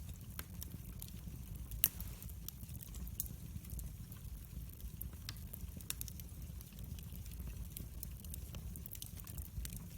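Wood fire in a fireplace crackling: irregular sharp pops and snaps over a low, steady rumble of the flames, with one louder pop about two seconds in.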